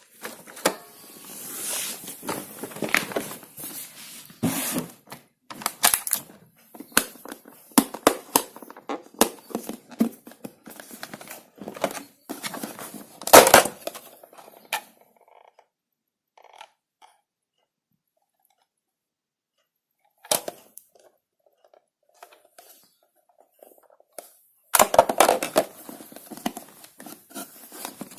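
Irregular knocks, clicks and rustling of objects being handled, in two busy stretches with a long quiet gap in the middle; the loudest knock comes about halfway through the first stretch.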